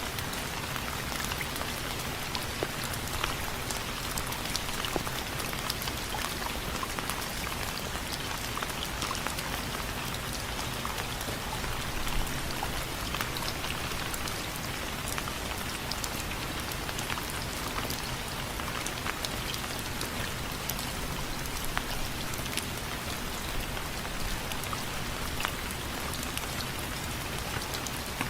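Steady rain falling on window frames, a constant hiss with many separate drops ticking against the frame.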